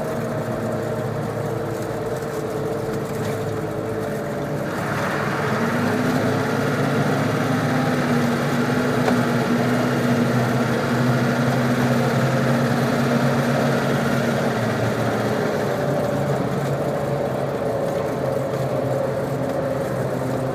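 Turbocharged GEP 6.5-litre V8 diesel in a Hummer H1, heard while driving. About five seconds in it comes under throttle and runs louder for roughly ten seconds, then eases slightly. The owner is chasing a noise that appears under acceleration and goes away when he lets off.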